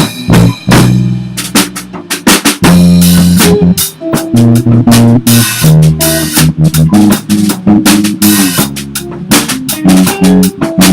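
A live rock trio playing an instrumental song: a drum kit keeping a busy beat with kick and snare, under bass and guitar notes.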